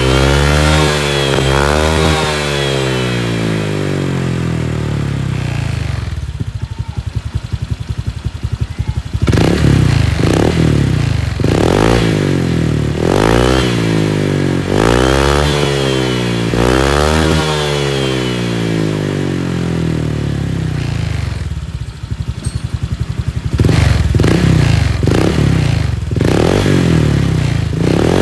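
Motorcycle running through an aftermarket copy of a CMS Dr.Sound exhaust fitted with its Gen 1 baffle, being revved in repeated throttle blips, each rising and falling in pitch. About six seconds in it drops to a steady idle for a few seconds, then the revving starts again, with shorter blips near the end.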